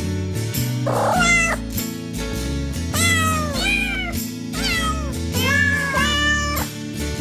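Cats meowing, about half a dozen short meows, over music with a steady beat and bass line.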